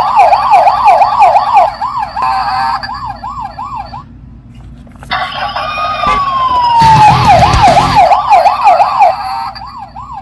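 Toy police car's electronic siren through its small speaker: a falling tone that breaks into a fast up-and-down yelp, about three sweeps a second. It plays twice, with a pause of about a second between, and a brief clatter during the second run.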